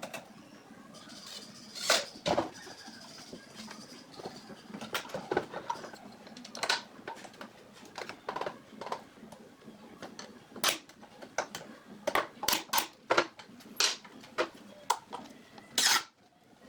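Irregular light knocks and clicks of hand work with wooden parts and tools, with a louder pair about two seconds in and a quick run of them between about ten and fourteen seconds.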